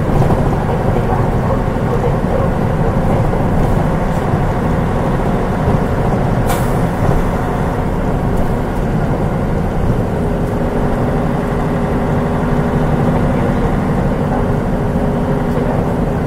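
Onboard running sound of a Mitsubishi Fuso Aerostar bus (KL-MP37JK) with its turbocharged 6M70 six-cylinder diesel engine, a steady drone heavy in the low end. A brief sharp sound cuts through about six and a half seconds in.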